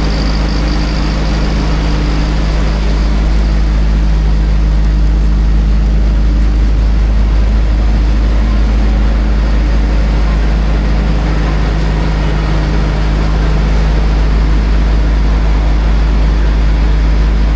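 An engine running steadily with a heavy low rumble. It starts suddenly and holds the same even pitch and level throughout.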